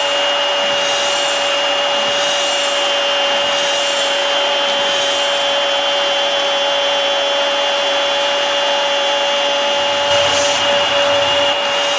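Roomba robot vacuums running: a steady motor whir with a constant hum and a high whine, a little louder for a moment near the end.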